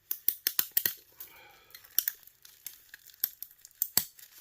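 Sharp clicks and snaps of hand tools prying copper and brass parts out of a small plastic electric heater. A quick run of clicks in the first second, then scattered ones, with a loud snap about four seconds in.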